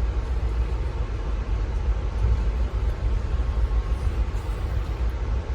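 Steady low rumble of a passenger train running, heard from inside the coach.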